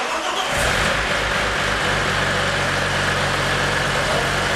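Car engine starting for the first time after being fitted: it fires right away, catches within about half a second and runs steadily. Those present think it does not sound good.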